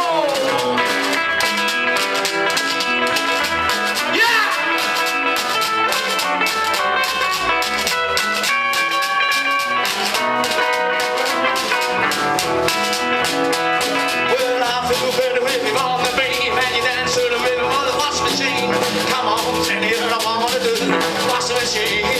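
Instrumental break of a blues boogie: a guitar solo with bent, sliding notes over a steady bass and drum rhythm.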